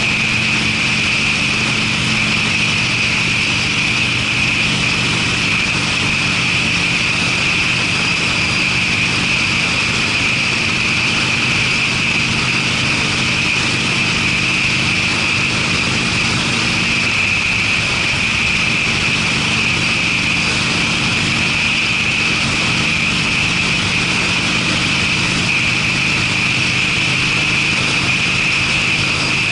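Harley-Davidson Sportster's air-cooled V-twin, fitted with Screamin' Eagle mufflers, running at a steady pace while riding, under an even rushing noise.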